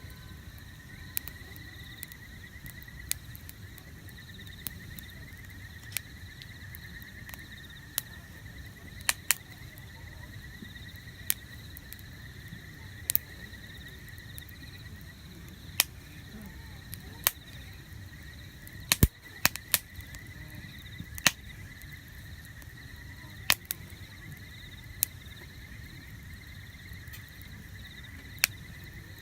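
Wood campfire burning, with irregular sharp crackles and pops over a low steady rumble of the flames; the pops bunch together about two-thirds of the way in. A steady high trill runs underneath.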